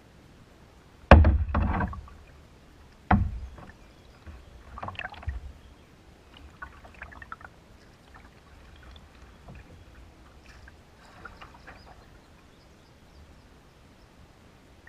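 Knocks on a canoe, most likely a paddle striking the hull: a sharp loud knock about a second in, another about three seconds in, then fainter irregular knocks and paddling sounds.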